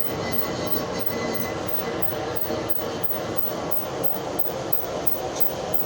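A workshop machine running steadily, with a regular beat of about three strokes a second over a continuous rumble.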